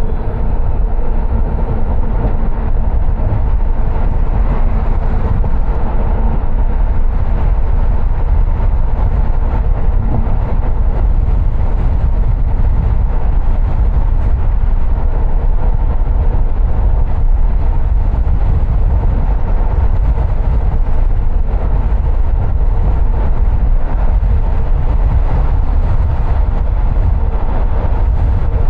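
Steady road and engine rumble of a car being driven, heaviest in the low end and without let-up.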